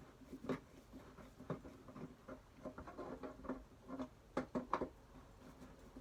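Hinges being removed from an old wooden toolbox lid: irregular small clicks and taps of metal hardware and tools against wood, with a few louder knocks about four and a half seconds in.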